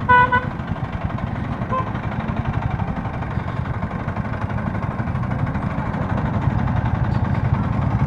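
A vehicle horn beeps briefly right at the start and again, shorter and fainter, about two seconds in, over the steady running of a motorcycle engine and road noise.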